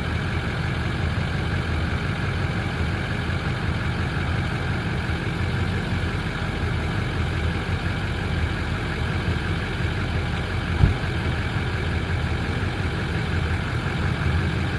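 Chevy 3500 pickup engine idling steadily, with one brief knock about eleven seconds in.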